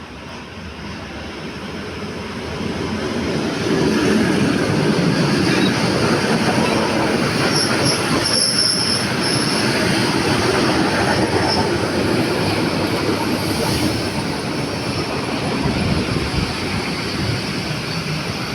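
A train running along the rails, growing louder over the first few seconds and then staying loud. About eight seconds in there is a brief high wheel squeal.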